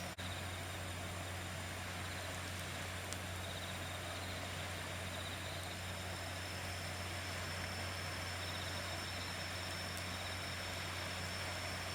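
Steady outdoor ambience: a constant low hum under faint insects chirping in short repeated trills, with a thin high insect buzz joining about halfway through.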